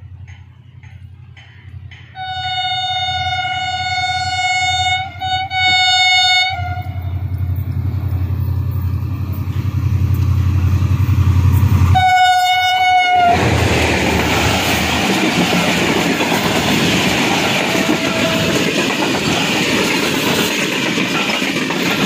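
A passenger express train approaches behind a diesel locomotive, its engine rumbling and growing louder. The horn sounds a long blast about two seconds in and a short blast about twelve seconds in. The locomotive then passes and the coaches rush by, the wheels running loudly on the rails.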